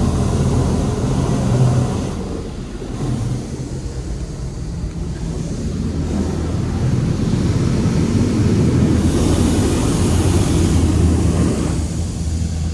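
Touchless automatic car wash running: a steady low machine hum under the hiss of spraying water, with the hiss growing louder and brighter for a couple of seconds near the end.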